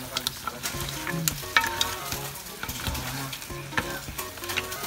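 Seafood of shrimp, mussels and crab sticks sizzling in tomato sauce in a pot while a slotted spatula stirs it, with scattered clicks and scrapes of the spatula and shells against the pot.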